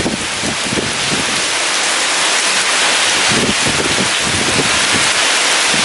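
Heavy rain falling steadily as a dense hiss, with strong wind gusting and buffeting the microphone in irregular low rumbles.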